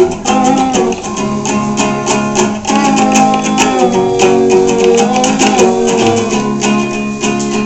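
Acoustic guitar playing an instrumental break in a song, notes plucked and strummed at a steady pace.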